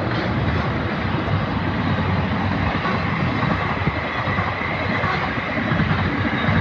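Train passing through a level crossing: a steady, continuous rumble of the train running on the rails.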